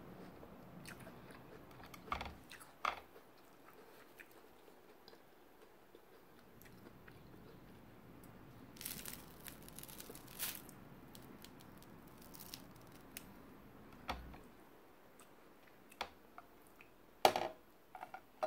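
Close-miked eating sounds: chewing toast and fried egg, with soft crunches and scattered sharp mouth clicks, the loudest few near the end.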